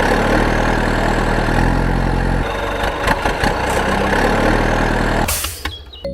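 An engine running steadily under a low, stepped backing line, cutting off about five seconds in.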